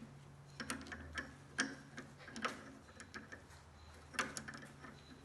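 Irregular light clicks and metallic taps from hand tools working on the machine's screws and fittings, with a low steady hum underneath.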